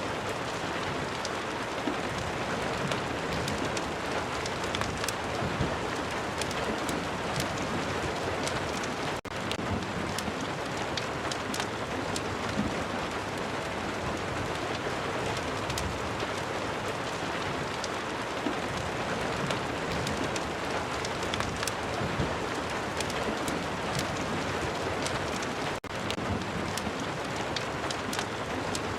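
Steady rain with many small sharp ticks of drops through it. The sound dips for an instant twice, about nine seconds in and near the end.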